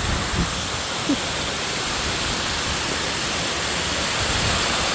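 Steady rush of running or falling water, even and unbroken, with a couple of soft low thumps in the first second or so.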